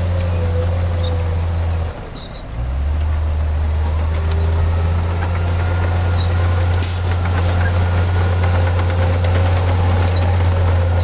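Heavy diesel engine of earthmoving machinery running at a steady low idle. The engine note drops off briefly about two seconds in, then returns.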